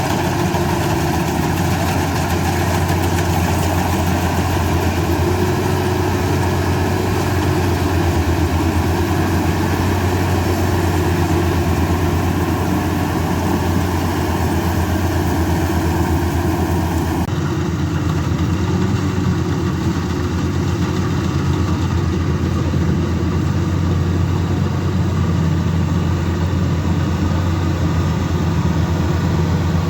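Combine harvester's diesel engine running steadily with a low, even hum. About two-thirds of the way in the sound changes abruptly and the hiss above it thins out.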